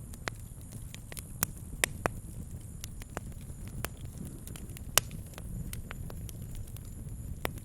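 Wood campfire crackling, with irregular sharp pops, the loudest about five seconds in, over a steady low rumble.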